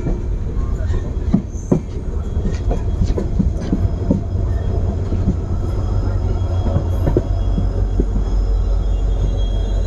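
Passenger train running on the track: a steady low rumble with scattered clicks and knocks of the wheels over rail joints, and a faint high wheel squeal near the end.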